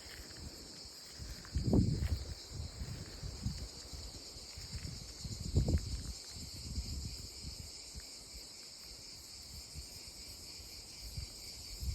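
Cicadas singing in olive trees: a steady, high, shimmering buzz from many insects together. Two low rumbles rise over it, about two seconds and about six seconds in.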